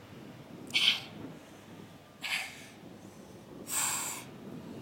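A woman breathing out hard in short, hissy breaths, three of them about a second and a half apart, one with each crunch as she tires near the end of a set.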